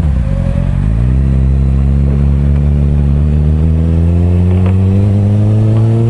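Kawasaki Ninja sport bike's inline-four engine under the rider, heard from a helmet camera: the revs drop and pick back up near the start, then rise slowly and steadily as the bike pulls away gently.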